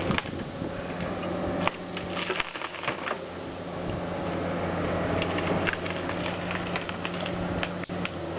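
Wood-splitting machine running with a steady hum, with many scattered sharp clicks and cracks over it.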